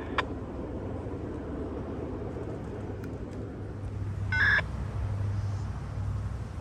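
Low steady rumble of an engine, growing a little stronger toward the end. A short electronic beep sounds once about four seconds in.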